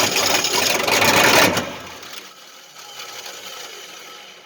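1989 Ford F-450's 7.3 L IDI diesel cranking on the starter in below-freezing cold without catching. The cranking stops about a second and a half in, and a much quieter sound trails on until it cuts off near the end. The hard cold start is one the owner puts down to weak glow plugs.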